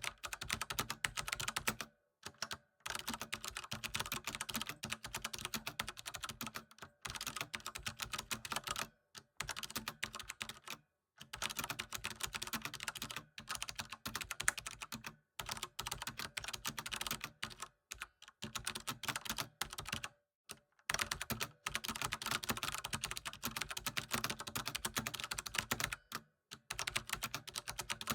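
Computer keyboard typing: fast runs of key clicks lasting a few seconds each, broken by brief pauses.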